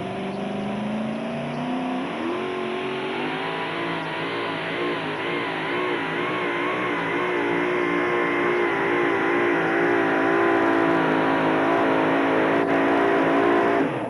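Modified pulling tractor's engine running at full throttle under load during a pull. Its pitch climbs over the first two seconds or so, then holds high with a slight waver.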